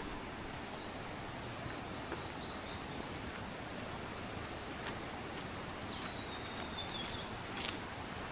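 Footsteps on a trail, heard as sharp scattered steps over a steady rushing background noise, with a couple of faint, thin, high bird notes.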